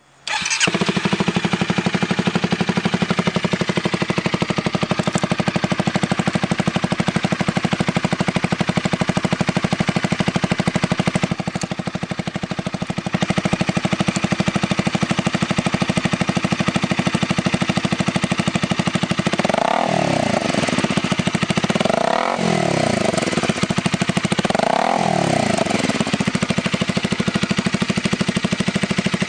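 Honda Rebel 250's single-cylinder engine idling through its exhaust, with three quick throttle blips about two and a half seconds apart in the last third, each a rise and fall in pitch.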